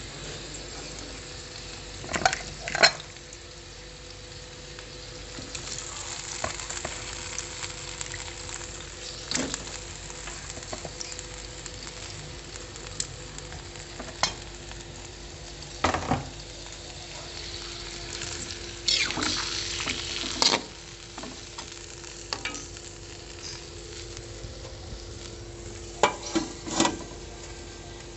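Pieces of marlin fin sizzling in a wok over a gas flame, a steady frying hiss, broken by sharp metal knocks and clatters of the spatula against the wok, loudest a couple of seconds in, at about twenty seconds and twice near the end.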